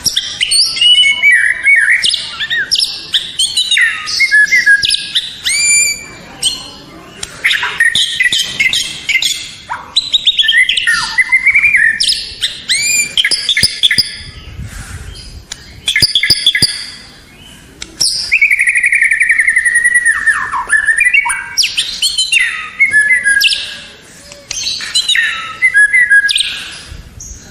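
White-rumped shama (murai batu) singing a long run of loud, varied whistled phrases that sweep up and down, broken by rapid trills and short pauses between phrases.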